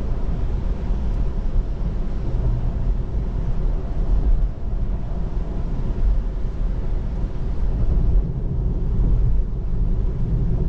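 Steady road and tyre noise inside the cabin of a moving electric car (Tesla Model 3) on wet roads: a low rumble with a hiss over it.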